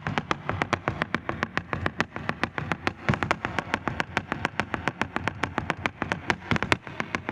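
Flamenco footwork (zapateado): shoe heels and toes striking the stage floor in a fast, even run of sharp strikes, about seven or eight a second.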